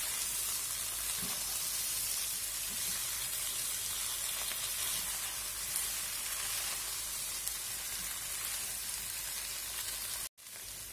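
Boiled potato and taro pieces sizzling steadily in hot oil in a nonstick kadai while being stirred with a silicone spatula, as the dry masala sabzi finishes cooking. The sizzle cuts out for an instant near the end.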